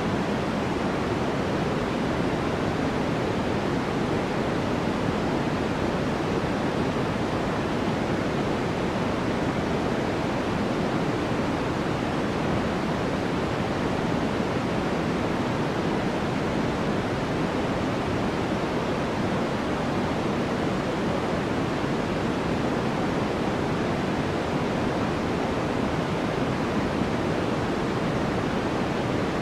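A steady, unchanging noise track of the white-noise kind: an even rush, fuller in the lows and mids than in the treble, with no events or changes.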